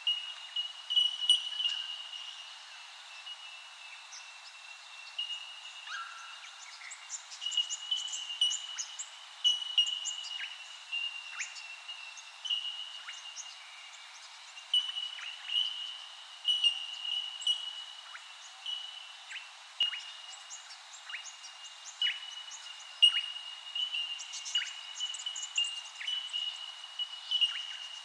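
Birds calling together: many short chirps and quick falling whistles over a steady, high-pitched run of repeated notes.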